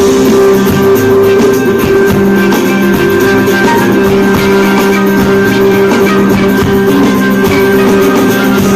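Live fusion band music, loud: plucked string instruments playing over two steady held drone notes, with percussion.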